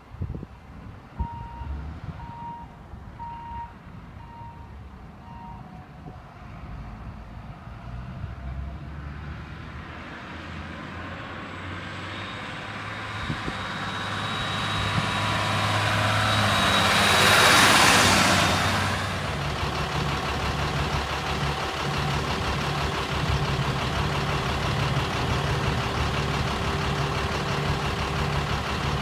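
Backup alarm beeping about once a second for a few seconds over a diesel truck engine, the 1995 GMC TopKick's Caterpillar 3116. Then a rush of noise builds to a loud peak and falls away, and the engine settles into a steady run.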